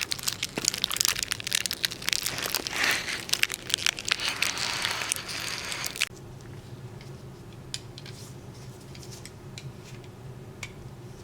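Dense crinkling and crackling full of sharp clicks, which stops suddenly about six seconds in, leaving a steady low hum with a few faint ticks.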